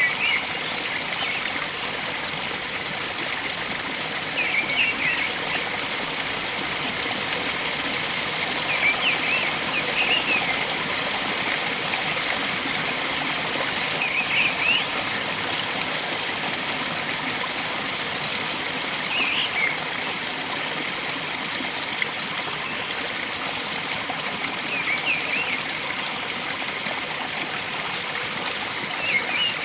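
Steady rush of flowing water, with a bird's short chirping call repeating about every five seconds.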